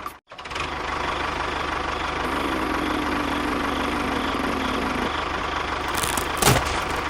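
A small engine running steadily after a brief cut-out at the start, with a lower hum joining from about two to five seconds in and a few sharp knocks near the end.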